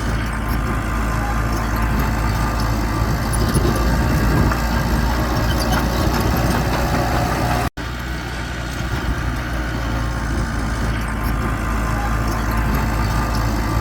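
Diesel engine of heavy earthmoving machinery running steadily at a low, even speed. The sound cuts out for an instant a little before the midpoint, then resumes unchanged.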